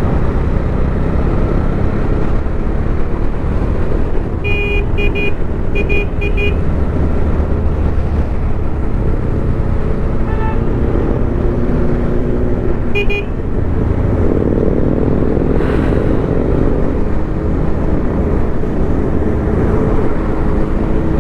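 Motorcycle engines running on the road in a group of Harley-Davidson V-twins, recorded from a helmet camera on a moving bike. A burst of short horn toots about five seconds in, single beeps near ten and thirteen seconds, and engine pitch rising about fourteen seconds in.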